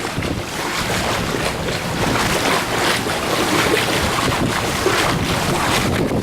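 Storm wind buffeting the microphone: a loud, steady rushing noise that rises a little about two seconds in.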